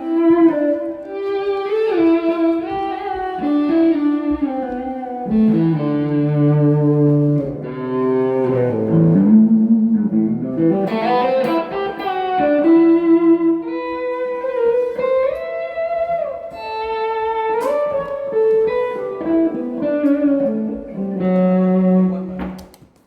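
Electric guitar playing a solo melodic line: runs of single notes mixed with held notes, string bends and slides. The playing stops just before the end.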